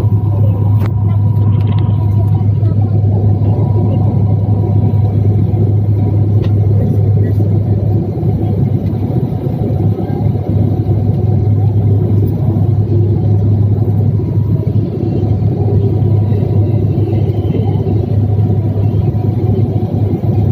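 Steady, loud, low rumble of a running vehicle, with a strong constant low hum underneath and no change in pitch or level.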